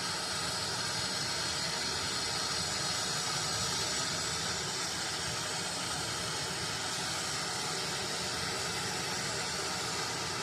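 Plumbing torch flame hissing steadily while it heats a copper pipe joint for soldering, then cutting off abruptly at the end.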